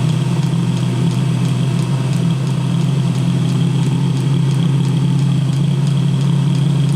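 Eberspacher D1L diesel heater running steadily just after firing, with a van engine idling under it and a light regular ticking. The owner believes the heater is being given too much fuel.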